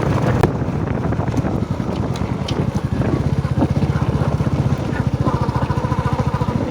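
Royal Enfield motorcycle engine running under way, its exhaust giving a steady, even beat of pulses.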